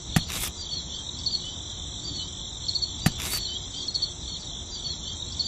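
Crickets chirping steadily in a high-pitched band, with two sharp clicks near the start and another about three seconds in.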